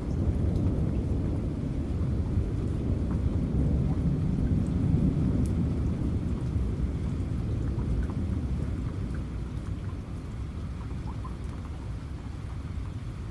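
Low rolling thunder over steady rain, the rumble slowly fading through the second half. Faint raindrop ticks sound through it.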